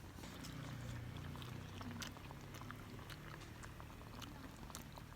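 Someone eating a pasta dish: chewing, with many small clicks of a utensil against the dish.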